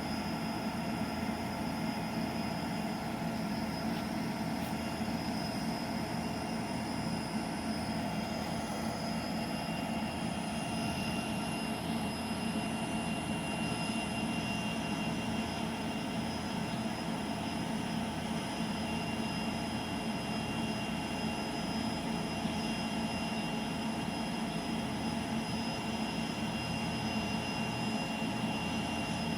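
Union Pacific train running steadily, an even, continuous noise with no horn sounding.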